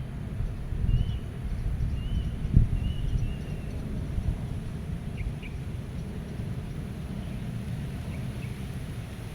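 Wind blowing in a low, gusty rumble, with one stronger gust about two and a half seconds in. Small birds give short, faint chirps now and then, mostly in the first half.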